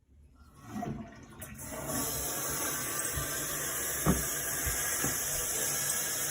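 Water rushing steadily, building up over the first second or two, with a small knock about four seconds in.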